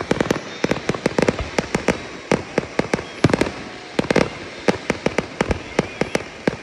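Fireworks going off: many sharp bangs and pops in irregular, rapid succession, several a second, some with a short echoing tail.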